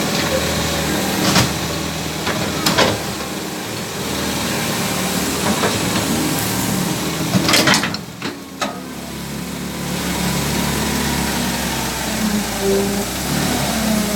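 Hydraulic excavator's diesel engine running steadily while it digs, with a few sharp knocks from the working machine, loudest a little after the middle.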